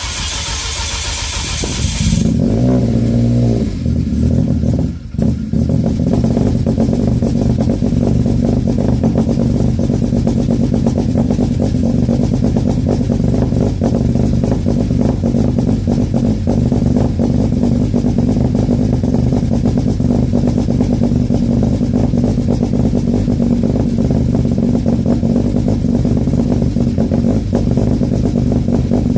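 Rally-tuned Renault Clio R3 2.0 four-cylinder engine starting: a loud whir for about two seconds, then the engine catches and revs briefly, dips once around five seconds in, and settles into a steady idle.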